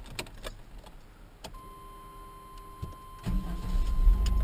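Chevy S10 wiper motor being switched on to test a repaired wiper circuit board: a few clicks and a steady high tone, then about three seconds in a loud low hum starts and runs steadily, a sign that the repair works.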